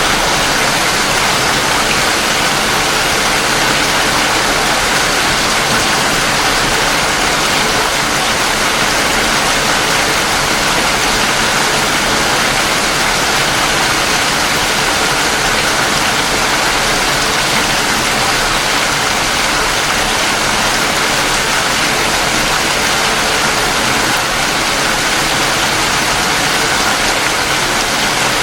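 Steady, heavy rain falling, a dense even hiss that holds at one level with no separate drops standing out.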